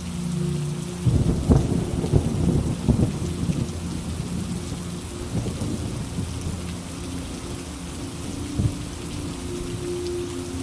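Steady rain falling, with a thunderclap about a second in that crackles and rumbles low for a couple of seconds, and a shorter, sharper crack of thunder later on.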